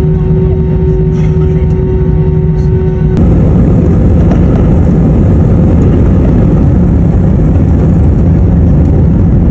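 Airliner engines heard from inside the cabin. A steady hum with a few held tones runs first; about three seconds in it gives way abruptly to a louder, even rushing roar, as at the start of the takeoff run.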